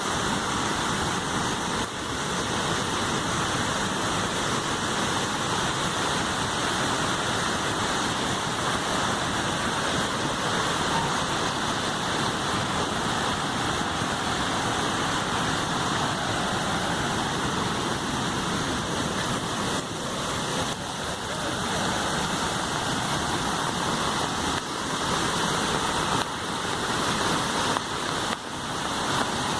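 Swollen river in flood, its floodwater rushing in a steady, unbroken roar.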